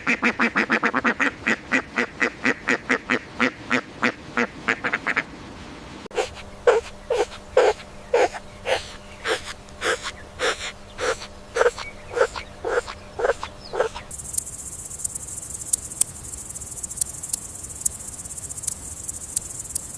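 A run of animal calls in three parts. First, about five seconds of rapid repeated calls, about four a second. Then, after a short pause, slower evenly spaced calls for about eight seconds. From about fourteen seconds in, high-pitched insect-like chirping.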